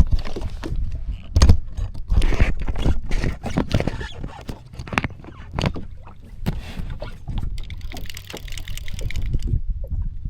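Water slapping and splashing against a jet ski's hull in uneven knocks, over a low rumble of wind buffeting the microphone.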